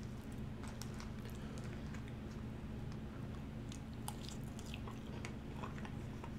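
Mouth-close chewing and wet smacking of someone eating soft, sauce-covered animal-style fries, with scattered short clicks. A steady low hum runs underneath.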